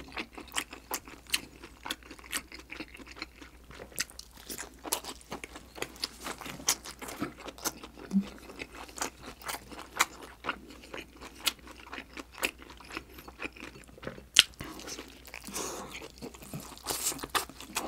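A person chewing a mouthful of steamed dumpling close to a clip-on microphone, with quick mouth clicks several times a second and a louder click about fourteen and a half seconds in.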